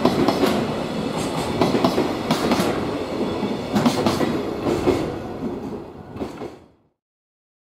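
Freight train of container flatcars rolling past, its wheels clacking rhythmically over rail joints. The last cars go by and the sound fades, going silent near the end.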